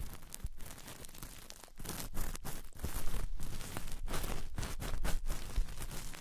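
Close-miked ASMR trigger sounds: irregular crinkling and crunching of a handled material, getting louder about two seconds in.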